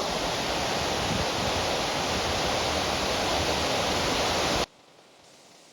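Steady rushing of a waterfall mixed with rain. About four-fifths of the way through it cuts off suddenly, leaving only a faint hiss.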